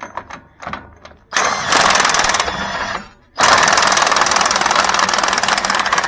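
Impact wrench hammering on a nut in two long rattling bursts, the first about a second in and the second starting about halfway through, after a few short clicks.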